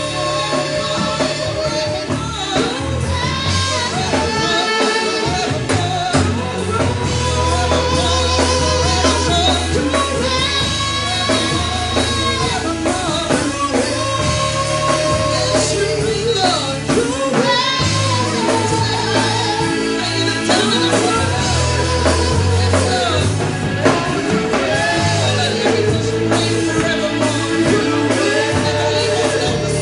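Live worship music: voices singing a melody over a band with bass, drum kit and keyboard-like sustained chords.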